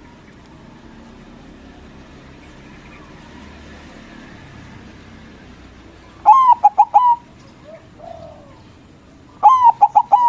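Zebra dove (perkutut, white form) singing its cooing song twice, each a quick run of about five rapid notes. The first comes about six seconds in and the second near the end, after several seconds of quiet background.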